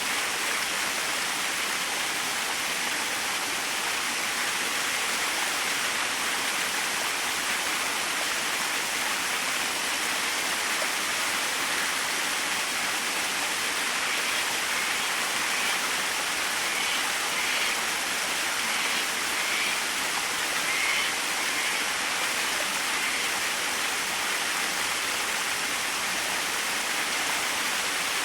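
Small waterfall splashing and rushing steadily, an even water hiss with no pauses.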